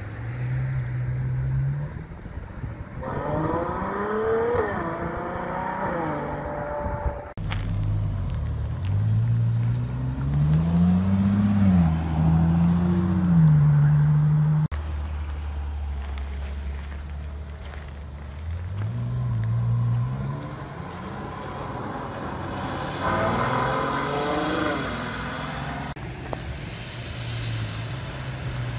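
Ferrari GTC4Lusso engine accelerating hard in several passes, its pitch climbing and then dropping back through gear changes. Near the end there is tyre hiss on a wet road.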